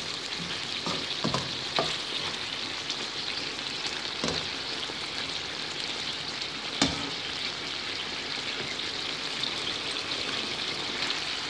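Lamb liver adobo sizzling steadily as it cooks in its sauce in a wok, with a few sharp knocks of a utensil against the pan, the loudest about seven seconds in.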